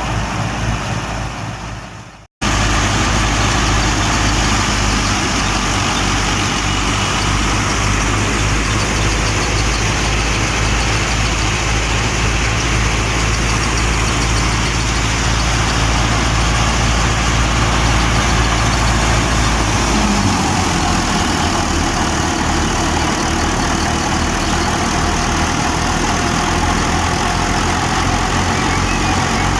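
A Fiat 480 tractor's diesel engine runs steadily while driving a wheat thresher, under a dense, even rush of threshing machinery. The sound dips out briefly about two seconds in, and the engine's low note changes about twenty seconds in.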